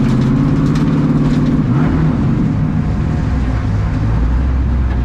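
Twin-turbo LS V8 of a Fox-body Mustang drift car running hard. The pitch holds, dips and climbs again about two seconds in, then drops to a lower, steady drone.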